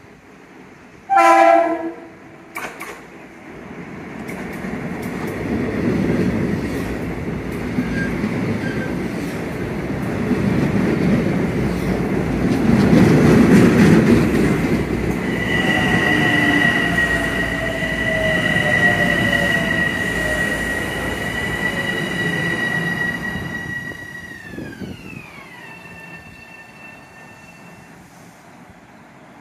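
A short, very loud train horn blast about a second in, followed by a Metro-North electric train running in with a rising rumble that is loudest around the middle. A steady high whine sets in about halfway, and near the end it glides down in pitch and fades as the train slows.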